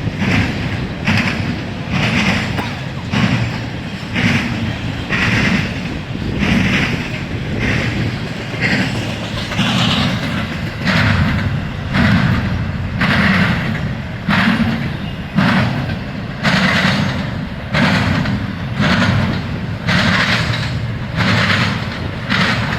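CSX intermodal freight train rolling past, its wheels knocking over rail joints in an even, repeating clatter about once or twice a second, over a steady low rumble.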